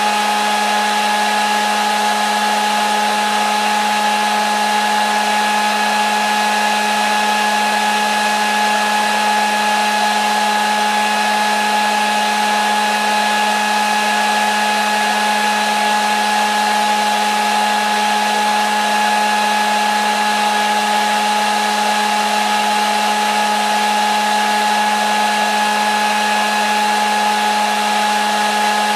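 Hair dryer running steadily: an unchanging rush of air with a constant motor whine, looped without a break.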